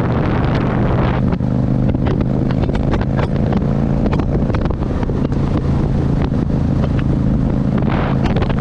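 Motorcycle engine running at a steady speed while riding, with wind noise buffeting the microphone.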